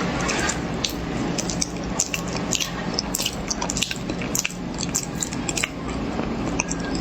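Close-up eating of corn, with biting and chewing that gives many short, crisp, wet crunching clicks. A steady low hum runs underneath.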